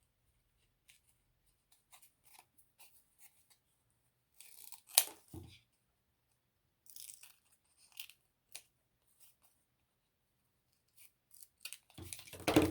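Paper and ribbon craft materials handled by hand: scattered faint rustles and small clicks, a sharper click about five seconds in, and a louder stretch of rustling near the end.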